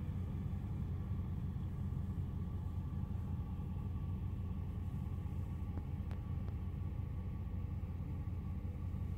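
Steady low rumble of a truck engine running, with a few faint clicks about six seconds in.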